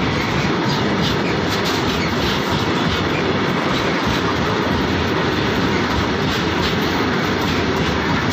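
Loaded coal freight train's wagons rolling past on a rail bridge: a steady, loud rumble with the wheels clacking over the rail joints.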